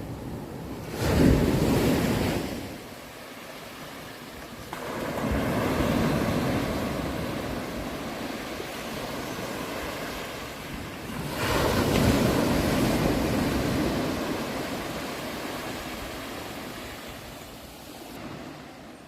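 Sea waves breaking and washing on a shore: a loud crash about a second in, a second wave swelling up around five seconds, and another big crash near twelve seconds, each dying away slowly.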